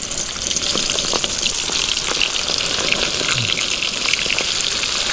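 Flour-breaded trout and fries frying in a pan: a steady sizzle dotted with many small crackles.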